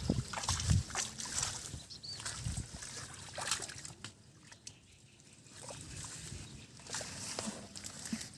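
Shallow muddy floodwater sloshing, with scattered small splashes and trickles as hands work through it to catch catfish.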